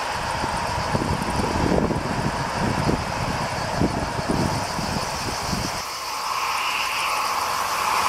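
Freight train of tank wagons running away into the distance, heard as an uneven low rumble under steady hiss. About six seconds in the rumble cuts off, and the rising hiss of an approaching TGV Duplex takes over.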